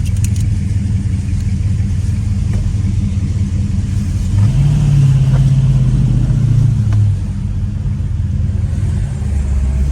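1970 Plymouth Superbird's 426 Hemi V8 running under way, heard from inside the car. Its pitch steps up about four and a half seconds in, holds for a couple of seconds, then falls back.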